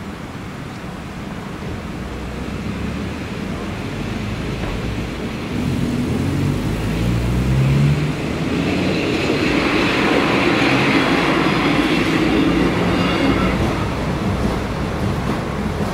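Passenger train passing the level crossing: its engine and rumble build up steadily, grow loudest with rail and wheel noise a little past the middle, then begin to fade toward the end.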